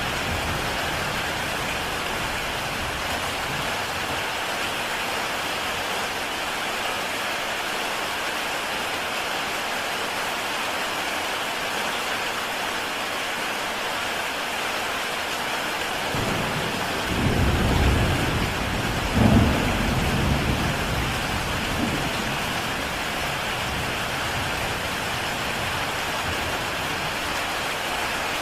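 Heavy rain falling steadily on a tile roof, an even hiss of drops. About two-thirds of the way through, a low rumble of thunder swells twice and fades over several seconds.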